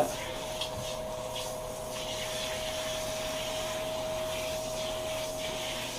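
Handheld shower head spraying water steadily, a hiss of water running over a dog's wet fur, with a thin steady whistle under it.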